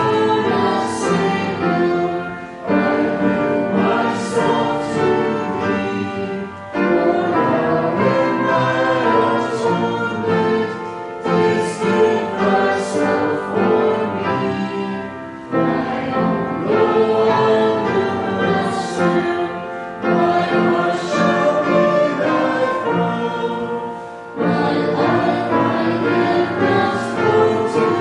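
Choir singing in long sustained phrases, with brief breaths between phrases every few seconds.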